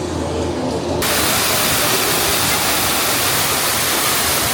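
Low rumble that cuts abruptly about a second in to a loud, steady rushing hiss of falling water.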